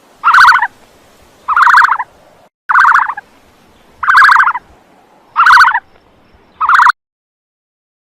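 A bird calling six times, each call a short, even burst about half a second long, one every 1.3 seconds or so. The sound cuts out about a second before the end.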